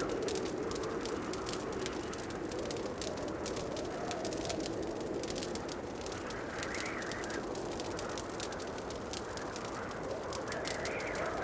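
Wood fire crackling in a fireplace: a dense run of small pops and snaps over a steady low rushing sound.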